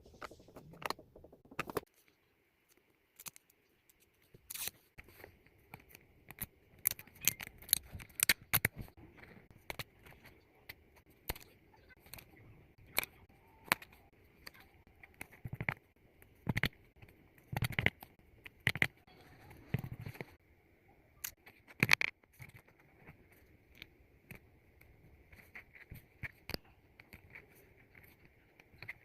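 Close-up crafting sounds of decorating a photocard sleeve with stickers: irregular small clicks, taps and crinkles as stickers and plastic are handled.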